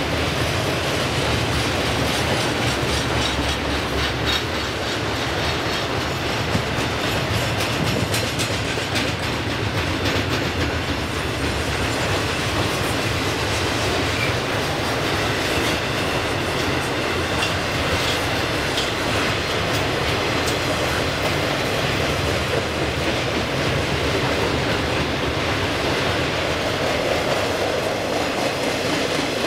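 Freight cars of a continuous welded rail train, loaded with long ribbon rail, rolling steadily past close by: a continuous rumble of wheels on track with clicking from the wheels.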